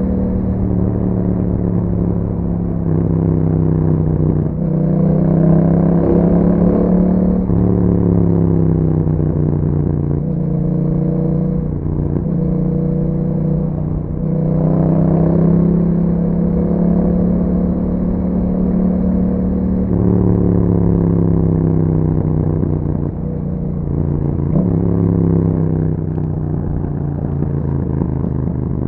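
2021 Yamaha MT-07's parallel-twin engine running through an Akrapovic exhaust with dB killers fitted, while riding. The engine note rises under acceleration several times, then drops back as the throttle closes or the bike shifts.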